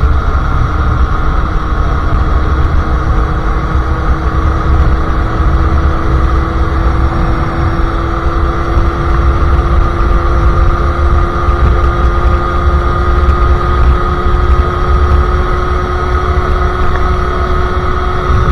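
A Sherco SM-R 50cc two-stroke single running through a KRM exhaust, cruising at a steady speed with its pitch creeping slowly upward. Heavy wind noise sits on the microphone.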